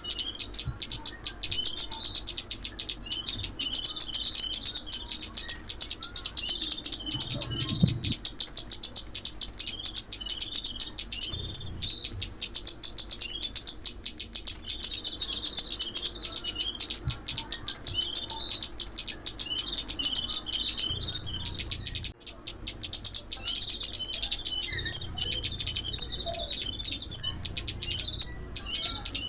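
Sunbird song (the bird sold in Vietnam as 'chim ốc mít', crimson sunbird): a fast, continuous stream of high-pitched twittering chirps with a thin, steady high whistle running under much of it, broken by a couple of brief pauses. A recording of this kind is played as a lure to draw wild sunbirds to a trap.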